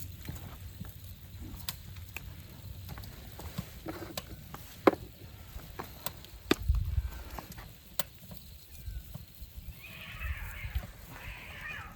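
Scattered sharp knocks and clicks at irregular intervals, with low rumbling in between; the loudest knock comes about five seconds in.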